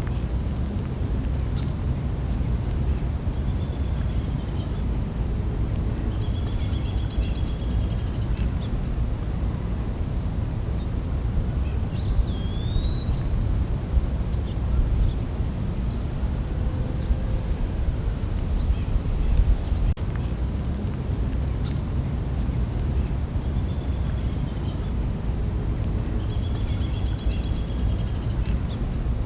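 Night insect chorus: a steady high buzz and rapid cricket-like chirping at about four chirps a second, with short trills a few times and one brief swooping call about twelve seconds in, over a steady low rumble.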